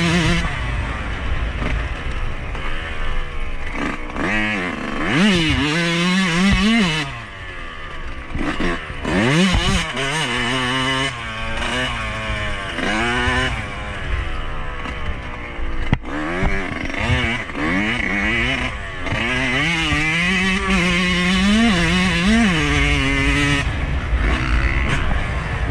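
2021 Yamaha YZ125's 125cc two-stroke single-cylinder engine being ridden hard, its pitch climbing and dropping again and again as the throttle is worked, over a steady low rumble.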